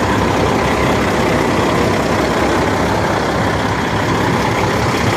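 Kenworth semi truck's 550-horsepower Caterpillar diesel engine idling steadily.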